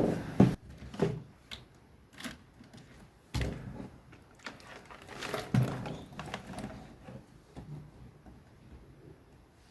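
Scattered clicks and soft knocks, irregularly spaced: handling noise of a computer keyboard being moved and pressed on a desk.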